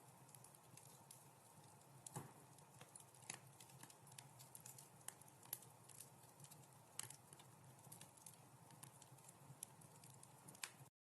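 Wood fire crackling in a fireplace: irregular sharp pops and snaps over a soft low rumble of the flames, cutting off suddenly near the end.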